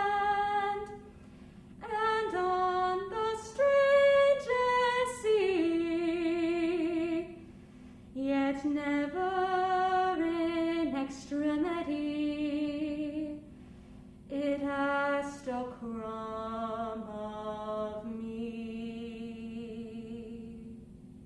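Solo female classical voice singing long held notes with vibrato in phrases separated by short pauses; the last phrase is softer and fades out near the end.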